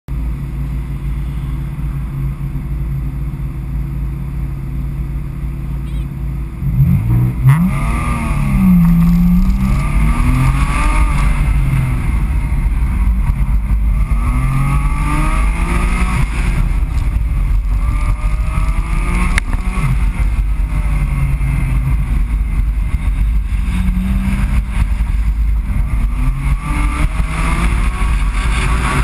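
Porsche Boxster's flat-six engine idling steadily, then launching about six and a half seconds in and revving up and down again and again through the autocross course. Tyre and spray noise from the wet pavement runs under it.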